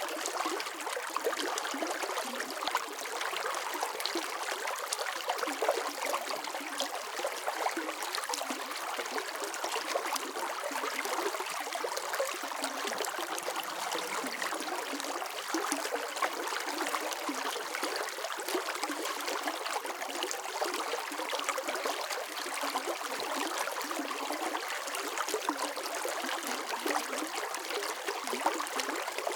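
Running water flowing steadily, a continuous splashing and trickling with many small bubbling flickers and little low rumble.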